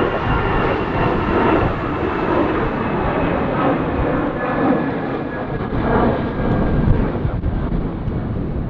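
Jet engines of a Boeing 777-300ER: a steady loud rush with faint high whining tones, easing slightly near the end.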